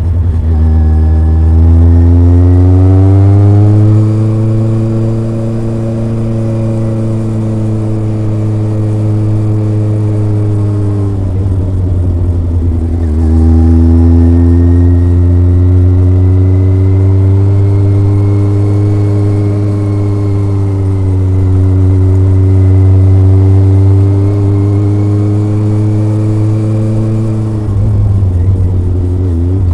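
Kawasaki ZRX motorcycle's four-cylinder engine and exhaust under way, pitch climbing as it pulls, easing off and climbing again about midway, then dropping near the end.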